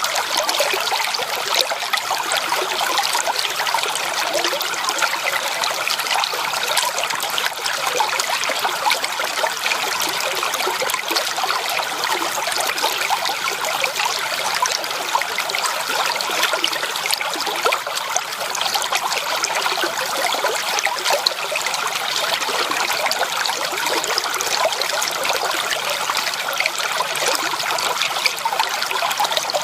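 Stream water running steadily, with many small splashes and trickles.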